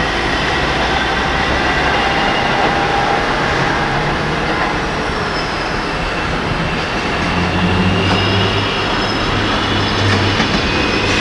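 Electric multiple units, a Class 321 pulling away and a Class 315 approaching, running over curved pointwork. There is a steady rumble of wheels on rail with thin high tones over it, and a low hum joins about seven seconds in.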